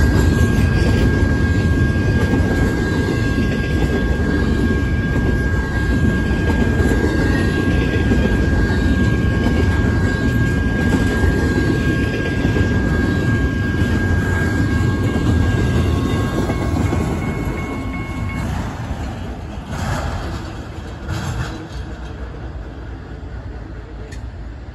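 Double-stack intermodal freight cars rolling past at speed: a loud steady rumble of steel wheels on rail with a thin, steady high-pitched tone over it. After about 18 seconds the tone stops and the rumble thins and fades as the end of the train goes by, with a couple of short knocks near the end.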